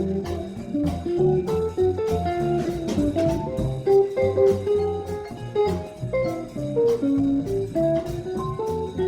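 Small jazz combo playing an up-tempo bebop tune: a guitar plays a quick single-note line over bass and drums.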